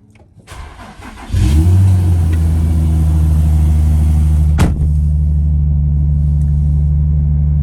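Car engine cold-started: the starter cranks it briefly, it catches about a second and a half in, and it settles into a steady fast idle, raised because the engine is cold. One sharp click sounds partway through.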